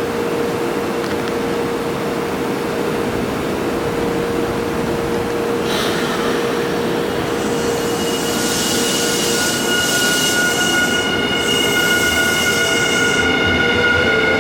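A Nankai electric train rolling along the platform, its wheels squealing in several steady high tones from about halfway through, along with bursts of hiss.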